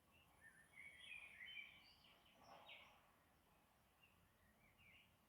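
Faint chirping of small birds: clusters of short, quick chirps, busiest about one to two seconds in, with a few scattered calls after.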